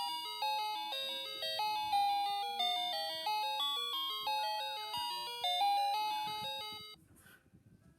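An electronic toy's music chip playing a simple tune of single chime-like notes, about two a second, that cuts off suddenly about seven seconds in.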